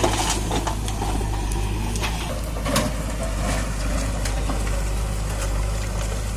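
John Deere 5045 D tractor's three-cylinder diesel engine running steadily.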